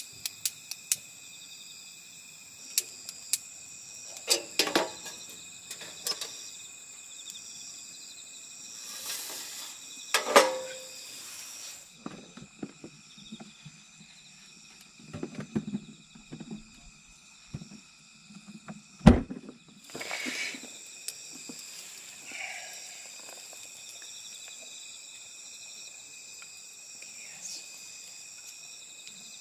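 Autumn insect chorus, crickets chirring steadily at several high pitches, with scattered handling clatter and one sharp knock about two-thirds of the way through.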